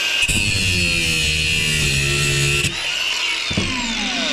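Angle grinder running with a high whine, cutting into a part of the dishwasher motor for about two and a half seconds, then released and spinning down with falling pitch near the end.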